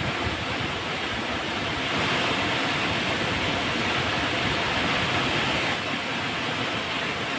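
Flowing river water, a steady rushing hiss, a little louder for a few seconds in the middle.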